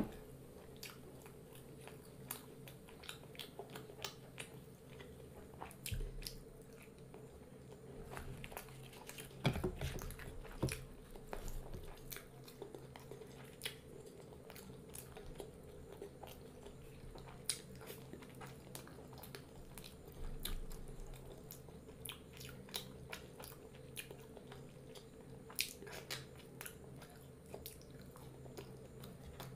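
Close-up mouth sounds of someone chewing and biting puri (deep-fried Indian bread) with matar paneer curry: soft crunches and many short, irregular wet clicks, a little louder around ten seconds in.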